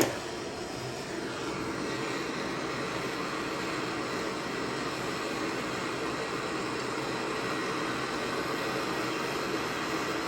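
A steady rushing machine noise, like a fan or blower running, holding level throughout.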